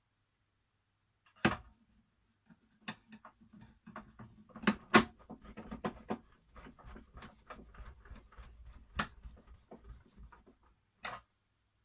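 Clicks, knocks and rubbing of the hard plastic body of a 1983 National Panasonic Jet-Flo cylinder vacuum cleaner being handled and screwed back together, with a sharp knock about a second and a half in and another near the end.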